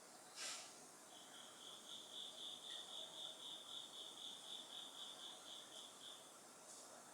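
Faint autumn insect song: a high, evenly pulsed chirping at about four pulses a second, starting about a second in and stopping about six seconds in. A brief soft rustle comes just before it.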